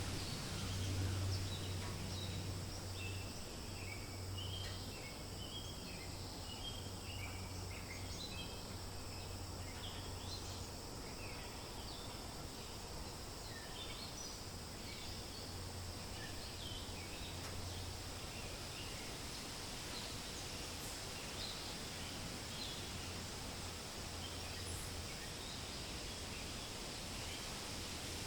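Forest ambience: a steady rustle of wind in the leaves, with small birds chirping on and off, most busily in the first ten seconds. A low hum comes and goes underneath.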